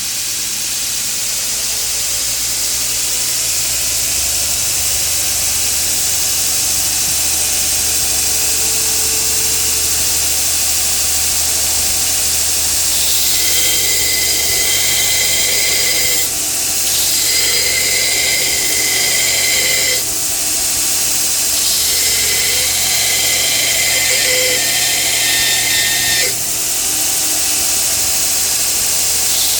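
2x72 belt grinder driven by a 3 hp motor running at full speed, its steady hum and belt hiss building over the first few seconds. From about halfway in, a harsher high hiss comes and goes in several stretches with short breaks, the sound of metal being pressed against the moving belt in grinding passes.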